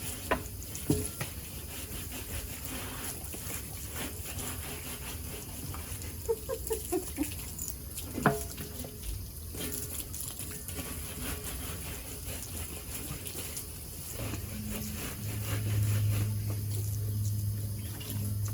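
Water running and splashing while a removed washing machine drum is scrubbed with a wet broom, with a few sharp knocks. A low steady hum comes in about fourteen seconds in and runs on.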